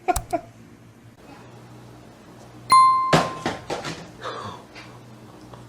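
A single bright ding like a small bell, ringing for about a second, followed at once by a second or so of clattering noise.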